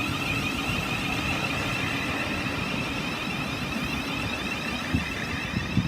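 Thameslink Class 700 electric multiple unit running into the station platform: a steady rumble from the wheels on the track with a high-pitched whine over it, and two short knocks near the end.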